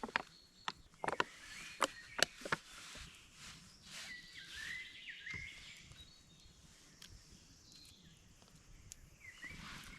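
A songbird calling in short, warbling chirps over quiet forest ambience, heard about four seconds in and again near the end. A handful of sharp knocks come before it, in the first two and a half seconds.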